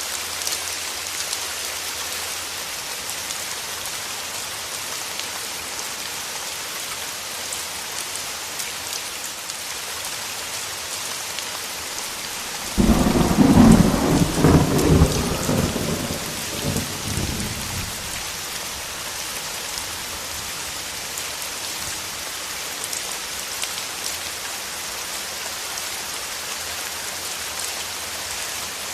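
Steady rain falling, with a clap of thunder a little under halfway through that starts suddenly, crackles loudly for a couple of seconds and rumbles away.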